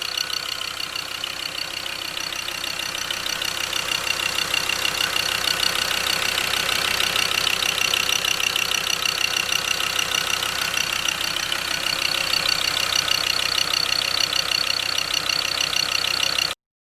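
Ford 3.2 Duratorq (Power Stroke) diesel engine idling, with a fast, even clatter. It cuts off abruptly near the end.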